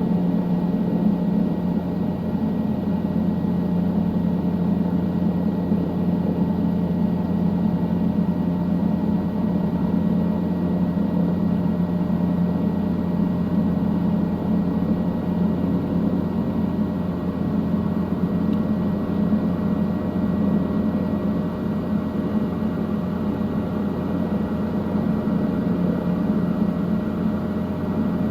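Helicopter in flight, its engine and rotor making a steady, unchanging drone with a thin high whine.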